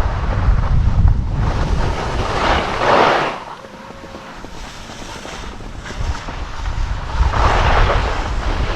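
Wind buffeting the microphone while skiing downhill, with skis scraping and hissing over the snow in surges as they turn. The wind rumble drops away for a couple of seconds in the middle, then comes back.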